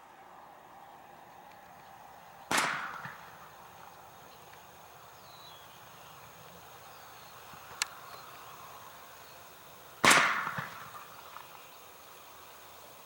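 Two loud bangs from a propane bird-scare cannon, about seven and a half seconds apart, each dying away over about a second.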